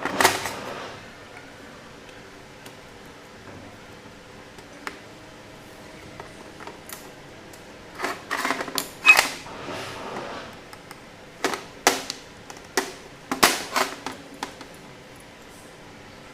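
Sharp clicks and clatters of tools and small metal carburetor parts being handled on a workbench, in short clusters: one right at the start, then several bunched together in the second half.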